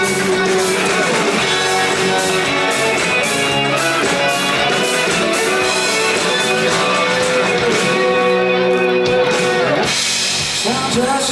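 Live rock band playing, with guitar prominent over steady drums.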